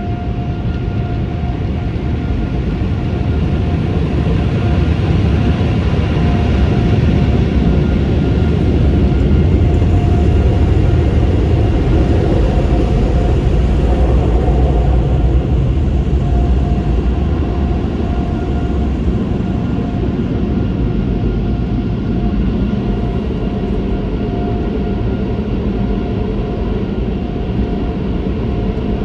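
Car wash tunnel equipment running: a loud, steady rumble with a constant motor whine over it, the rumble heaviest in the middle stretch.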